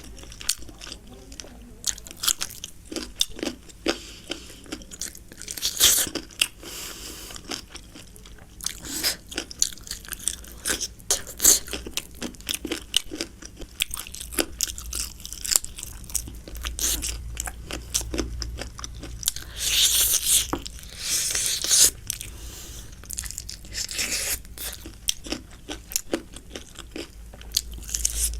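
A person chewing and biting a mouthful of biryani close to the microphone: many short wet clicks and crunches, with a few louder bursts.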